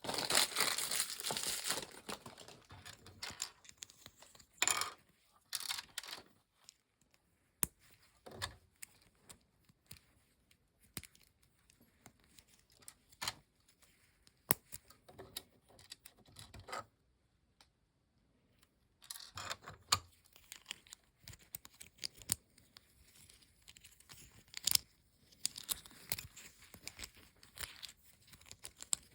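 Toy packaging being torn open and crinkled, in bursts of rustling with scattered small clicks and taps in between, and a brief pause about two-thirds of the way through.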